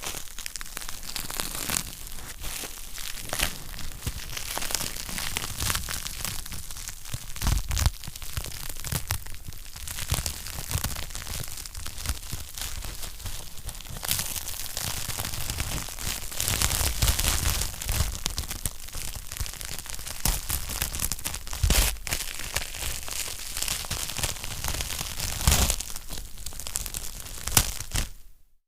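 Wood fire in a fireplace crackling: a dense, irregular run of small snaps and pops, with a few louder pops scattered through. It cuts off suddenly near the end.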